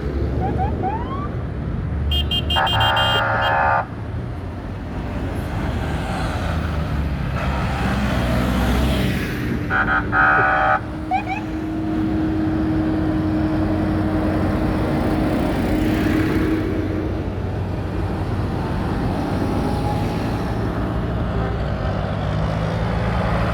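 Vintage farm tractors' diesel engines running as they drive past in a procession. A vehicle horn toots twice, once for just over a second about two and a half seconds in, and briefly again about ten seconds in.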